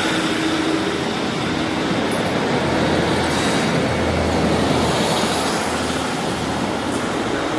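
Transport for Wales diesel multiple unit running past close by along the platform, with the steady noise of its wheels on the rails and its underfloor diesel engine.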